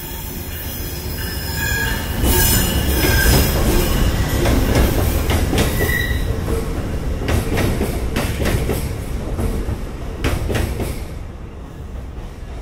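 Amtrak diesel-hauled passenger train with stainless-steel coaches rolling past at low speed, its wheels giving short squeals in the first few seconds, then a run of clicks and clacks as the cars cross the rails. The sound fades toward the end as the train draws away.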